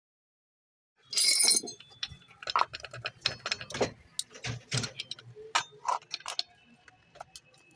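Irregular clicks, taps and clinks of small hard parts being handled, starting about a second in.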